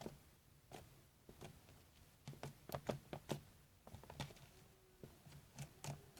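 Slime being poked and squeezed with fingers, making soft, irregular clicks and pops.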